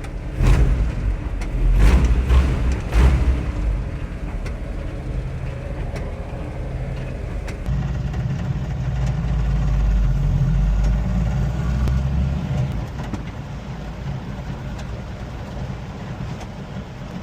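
Ford F100 pickup's engine running as the truck drives, with a few loud thumps in the first three seconds. The engine pulls harder for a few seconds in the middle, then eases off.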